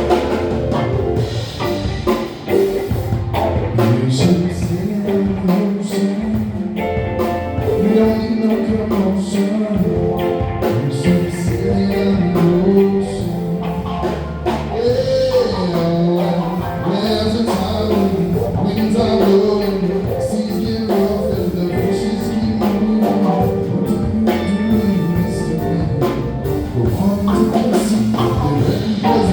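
A live band playing a song at full volume, with drum kit, bass and guitar under a melodic line that rises and falls.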